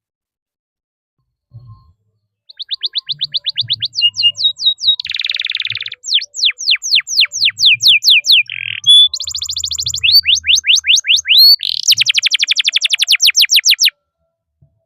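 Domestic canary singing one long rolling song: a string of fast trills and series of quickly repeated, downward-sweeping chirps, changing from one tour to the next. It starts after a couple of seconds of silence and stops a second before the end.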